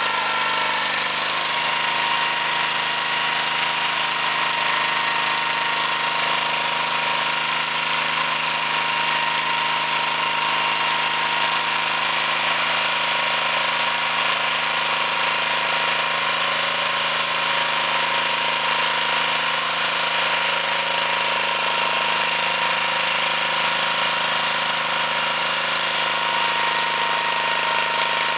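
Two-wheel walking tractor's engine running steadily under load, driving a rotary power harrow with a homemade seeder mounted on it. Its tone shifts slightly about a second in, then holds steady.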